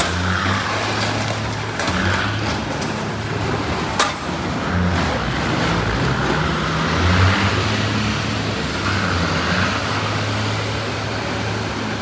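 Road vehicle noise: a steady low engine hum over a wash of traffic and road noise, with one sharp knock about four seconds in.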